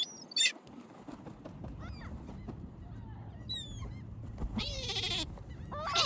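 A flock of birds calling: short, harsh calls that fall in pitch, a couple at the start, more about three and a half seconds in, and a busier run of them about four and a half to five seconds in.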